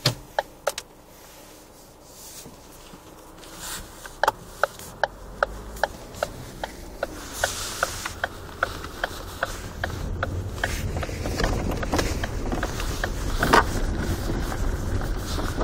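Inside a Ford Focus 3 on a rough, unpaved road: regular ticking about two and a half times a second, road rumble building from about five seconds in, and a few heavier knocks from the front end near the end, the knock the owner puts down to the power-steering rack.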